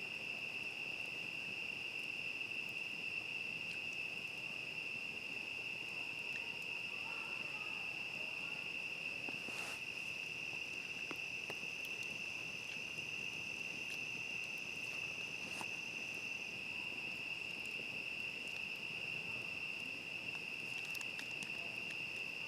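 Steady chorus of crickets, one continuous high trill, with a second, higher insect tone joining for about six seconds in the middle. A few scattered crackles from the campfire, the sharpest about ten seconds in.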